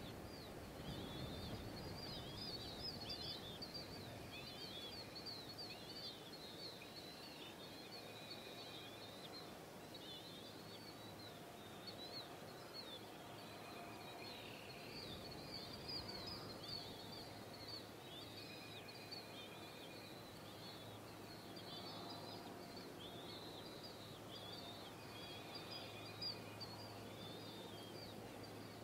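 Birds chirping and singing around the nest, many short high chirps one after another, with a soft rustling in the first few seconds.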